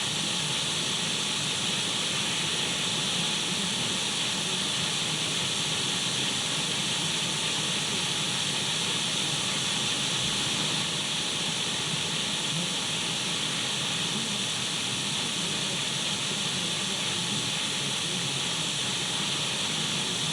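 Radio static: an even, steady hiss with no speech or music, brightest in the upper range.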